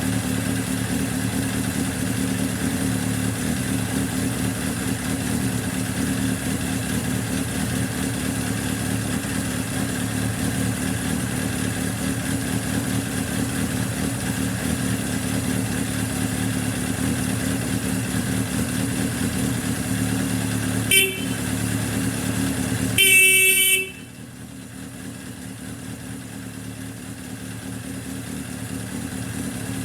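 Suzuki GSX750S Katana's air-cooled inline-four idling steadily. About 21 seconds in the bike's horn gives a short toot, then a longer blast of about a second, after which the engine noise is much quieter.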